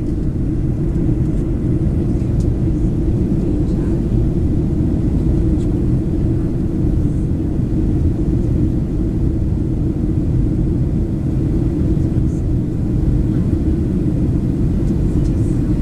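Steady low rumble of a Boeing 737-700's CFM56 turbofan engines and the airflow over the fuselage, heard from inside the passenger cabin on approach.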